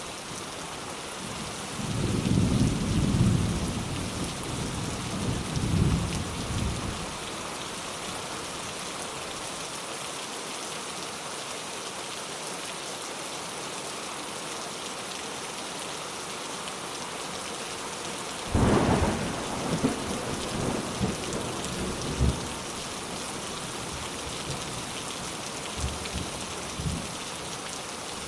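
Steady rain hissing, with thunder rumbling twice: a low rumble about two seconds in that lasts several seconds, then a sharper clap a little past the middle that rolls on for a few seconds.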